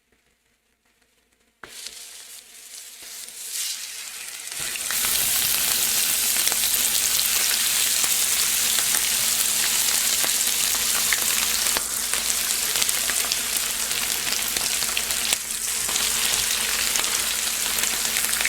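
Raw chicken pieces going into hot olive oil in a frying pan and sizzling. The sizzle starts suddenly about a second and a half in, grows louder as more pieces go in, and from about five seconds in holds as a loud, steady frying sizzle.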